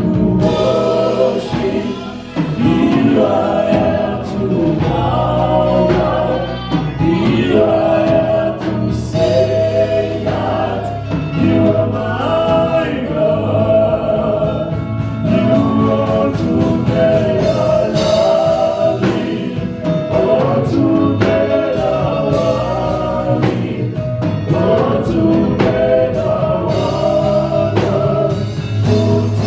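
Gospel choir singing with a live band, held sung notes over a steady beat.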